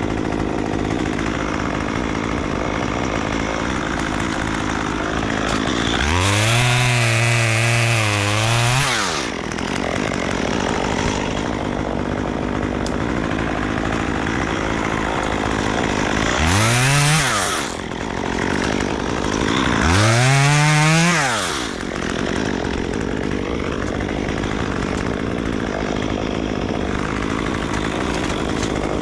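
Chainsaw engine idling, revved up to high speed three times: a long burst about six seconds in, a short one, then another a few seconds later, each rising quickly in pitch and falling back to idle.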